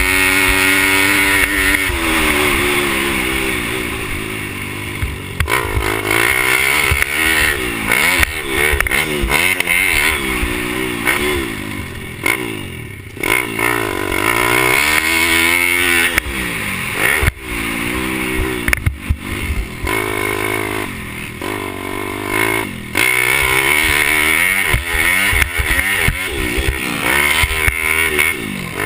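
Pit bike engine revving hard and easing off again and again, its pitch climbing and dropping every second or two as the bike accelerates, shifts and brakes.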